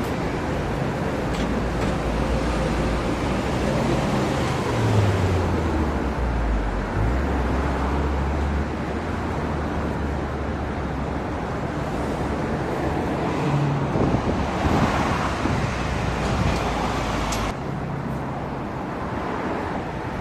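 Road traffic noise with a vehicle engine rumbling low and steady. The rumble stops abruptly near the end.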